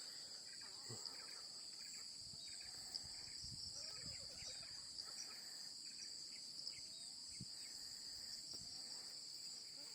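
Steady, shrill insect chorus in the background, with faint scattered bird chirps and a few soft knocks.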